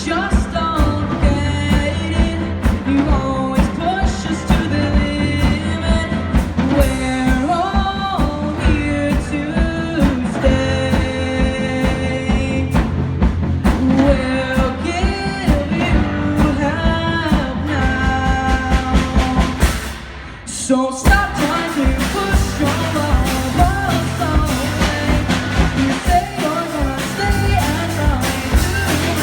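Live rock band performing a song with lead vocals over drums and guitar. The music breaks off for about a second roughly two-thirds of the way through, then the full band comes back in.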